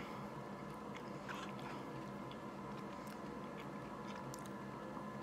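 Faint chewing of a mouthful of mashed potatoes and corn, with a few soft mouth clicks.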